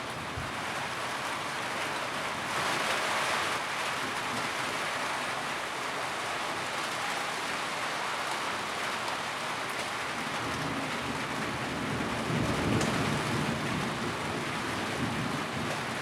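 Steady rain drumming on a tin roof, an even patter that swells heavier about three seconds in. A low rumble rises under it about twelve seconds in.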